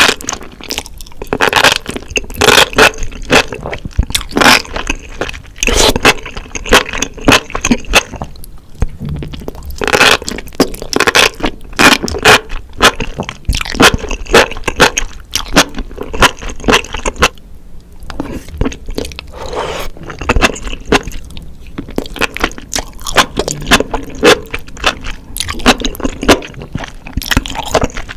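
Close-miked eating sounds: spicy enoki mushrooms in sauce being bitten and chewed, a steady run of quick, uneven bites and chews.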